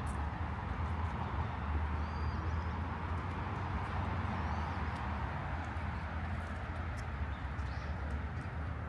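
Outdoor park ambience: a steady wash of distant city noise with a low rumble underneath, and a few faint bird chirps about two and four and a half seconds in.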